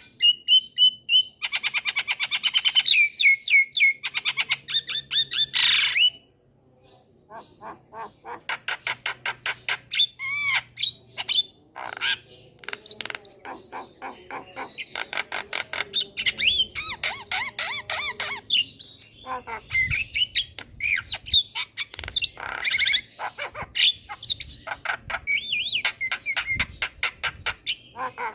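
Javan myna singing: fast runs of harsh chattering and squawking notes mixed with short whistled notes, broken by a brief pause about six seconds in.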